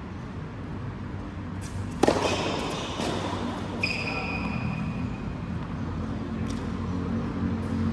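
A single sharp hit, a racket striking the ball, about two seconds in. It is followed about four seconds in by a short high-pitched squeak, like a court shoe, over a steady low background hum.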